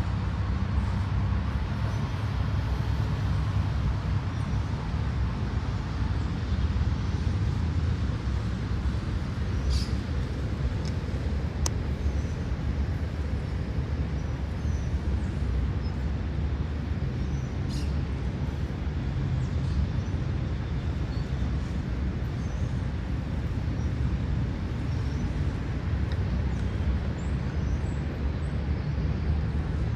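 Outdoor ambience of steady, low road-traffic rumble, with a few short, high bird chirps about a third of the way in and again past the middle.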